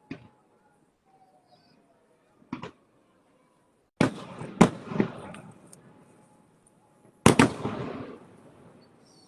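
Fireworks bursting as a run of separate bangs. There is a faint pop at the start and a sharper bang about two and a half seconds in, then three loud bangs in quick succession about four seconds in and two more about seven seconds in. Each loud bang trails off over a second or so.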